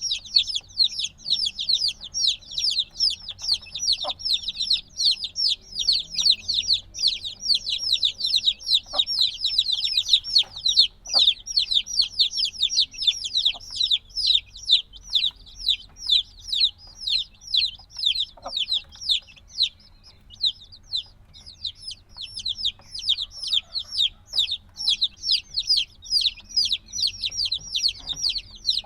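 A brood of chicks a few days old, peeping continuously: many high, falling chirps overlapping at several a second, thinning slightly about two-thirds of the way through. Such loud, constant peeping is typical of newly hatched chicks that still need warmth.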